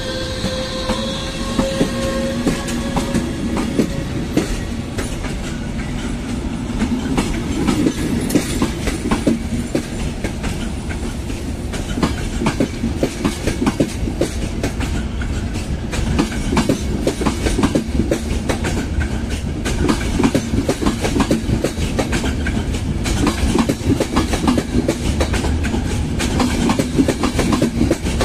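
A long locomotive-hauled passenger train rolling past, its carriage wheels clicking steadily over the rail joints above a constant low rumble. A faint whine falls slightly in pitch and fades out in the first few seconds.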